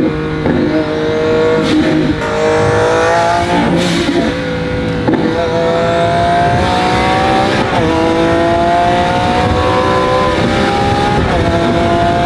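Twin-turbo Lamborghini Aventador V12 pulling hard through the gears, its engine pitch climbing and then dropping back at each of several upshifts.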